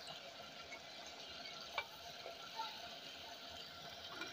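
Beef and spice masala sizzling faintly in a clay handi as it is stirred with a spatula, with a couple of light clicks about two seconds in.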